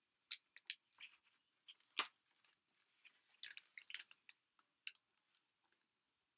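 Faint, irregular small clicks and crinkly rustles of a picture book being handled and opened, with a little cluster of crinkling about halfway through.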